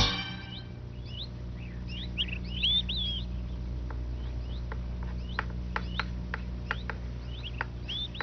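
Small birds chirping: scattered short chirps and quick calls that sweep sharply downward, over a steady low hum.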